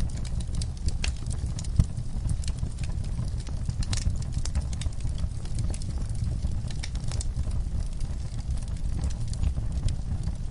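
Wood fire burning in a fire pit, a steady low rumble of flames with frequent sharp crackles and pops from the logs and coals, one louder pop about two seconds in.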